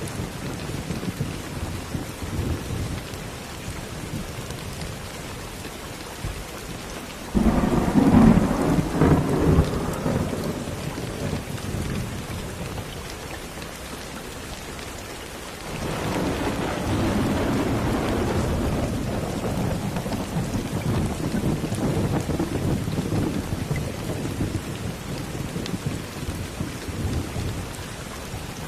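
Steady rain falling, with two peals of thunder: a sudden loud clap about seven seconds in that rumbles away over a few seconds, then a longer rolling rumble that builds from about sixteen seconds in and slowly fades.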